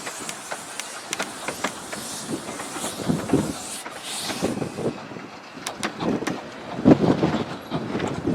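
A train on the 15-inch gauge Romney, Hythe and Dymchurch Railway running on the track, with irregular clicks and knocks from the wheels and swells of rumble about three seconds in and again near the end.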